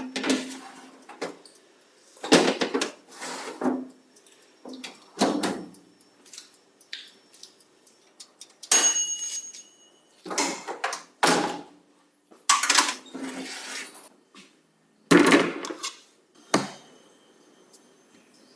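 Kitchen utensils and bowls being handled: a series of separate knocks, taps and scrapes about a second apart, with one ringing clink about nine seconds in.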